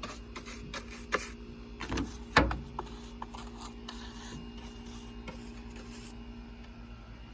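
Small hand brush scrubbing degreaser-soaked engine parts in quick scratchy strokes to work loose stuck-on grime, with a louder knock about two and a half seconds in; the scrubbing stops about six seconds in. A steady low hum runs underneath.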